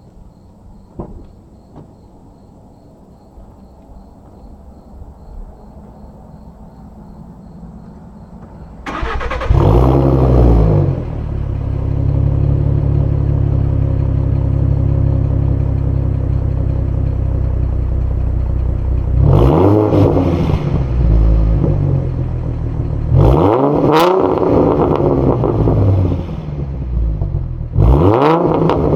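2012 Ford Mustang's 3.7-litre V6 with a straight-pipe exhaust, started about nine seconds in with a brief flare in revs, then idling with a loud, deep sound. It is blipped three times in the last ten seconds.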